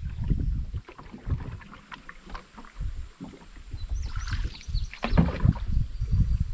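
Canoe being paddled: irregular low thumps and knocks with water splashing and dripping, and a louder splash about four to five seconds in.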